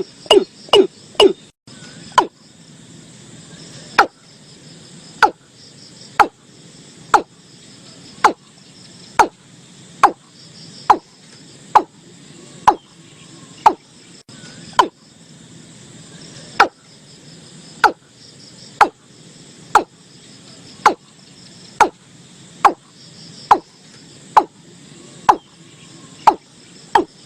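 Watercock calling: a run of sharp, knock-like notes, a few in quick succession at the start, then one about every second.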